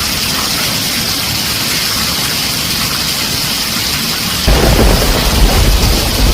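Heavy rain pelting a tin roof in a steady hiss. About four and a half seconds in, a loud low rumble of thunder breaks in and goes on.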